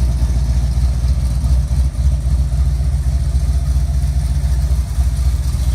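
1964 Chevrolet Chevelle Malibu Super Sport's engine idling, a steady low rumble with an even pulse.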